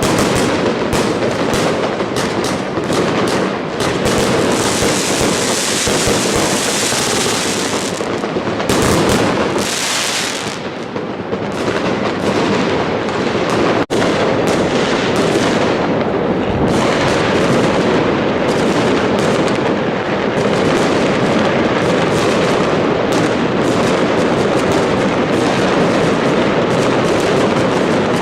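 Fireworks going off in a dense, continuous barrage of overlapping bangs and crackles, with a stretch of high hissing crackle a few seconds in.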